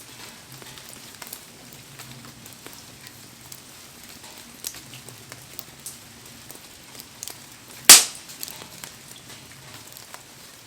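Wood fire crackling with scattered small snaps and one loud, sharp pop about eight seconds in, over a steady hiss of heavy rain.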